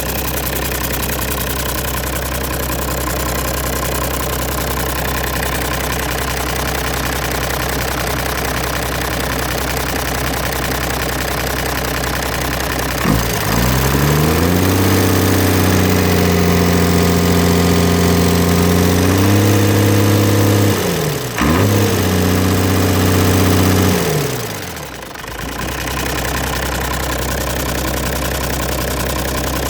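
Perkins Phaser 1006T six-cylinder turbo diesel engine idling steadily, then revved up about thirteen seconds in and held at a higher speed for about ten seconds, with a brief dip partway, before being let back down to idle.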